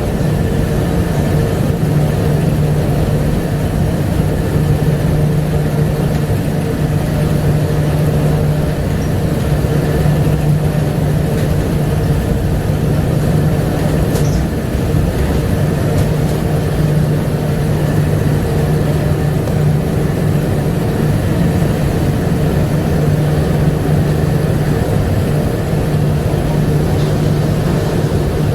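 Bombardier APM100 rubber-tyred light-rail car running on its guideway, heard on board: a steady low hum with a fainter higher tone over a constant rumble, unchanging throughout.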